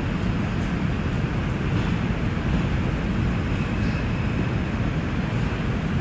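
R142 subway train running between stations: a steady low rumble of wheels on the rails with even track noise.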